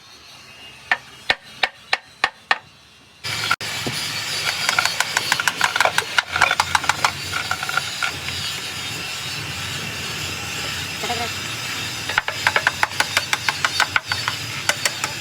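Workshop tool noise: several sharp metallic taps, then a steady hiss with quick irregular clicking that settles into a fast, even ticking near the end.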